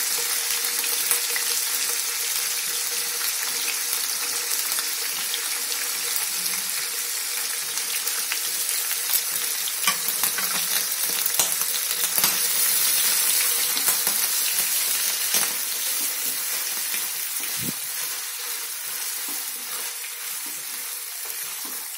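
Paneer cubes shallow-frying in oil in a nonstick frying pan over a low flame: a steady high sizzle with scattered pops and crackles, easing off a little toward the end.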